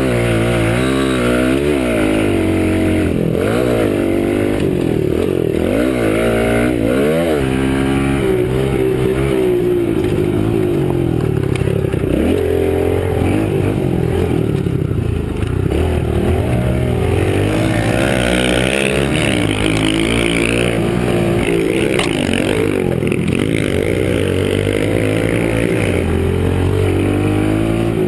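Kawasaki KLX110 pit bike's small single-cylinder four-stroke engine running under riding load, its pitch rising and falling again and again as the throttle opens and closes.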